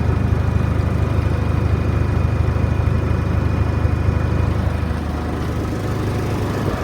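Case IH 485 tractor's diesel engine idling steadily, dropping a little in level about five seconds in.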